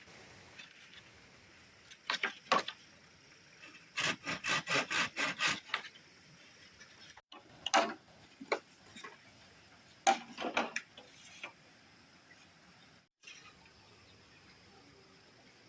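Wood being sawn or rasped by hand in short bursts of quick back-and-forth strokes, about four a second, with pauses between the bursts.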